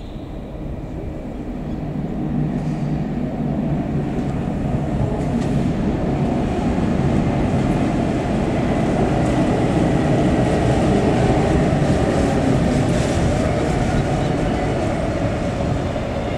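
SBB 'Domino' regional electric train rolling past along the platform: wheel rumble and a low motor hum that grow louder from about two seconds in, are loudest around the middle and ease off slightly near the end.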